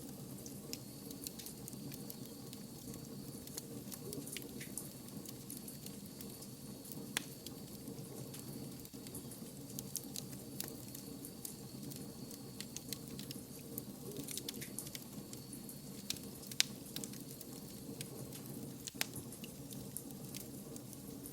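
Wood fire burning: a steady low rush with scattered sharp crackles and pops throughout, a few of them louder snaps, the loudest about three-quarters of the way through.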